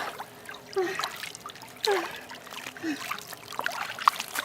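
Water splashing and trickling, with several small plops of drops or handfuls of water falling into water.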